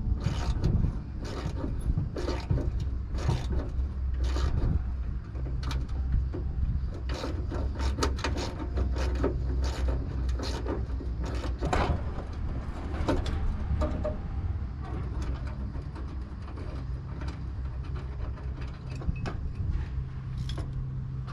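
Hand tools working on a junked truck's hood hinge to remove the hood spring: irregular metal clicks, knocks and clanks, thick at first and sparser after about two-thirds of the way, over a steady low hum.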